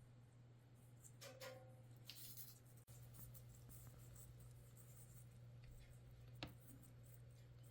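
A parrot's beak scraping and crunching into apple flesh: a few faint, short scratchy rasps and a sharp click over a steady low hum.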